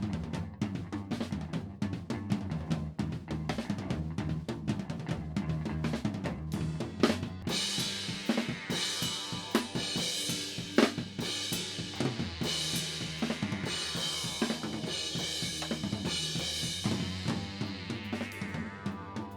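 Instrumental band music: a drum kit plays a busy, driving beat over steady bass notes. About a third of the way in, crashing cymbals join and wash loudly over the beat, then thin out near the end.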